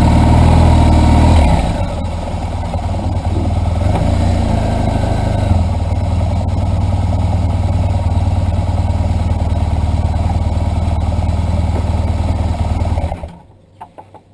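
BMW R1200 GS Adventure's flat-twin boxer engine running on the move, louder for the first couple of seconds and then steady. The sound cuts off abruptly near the end.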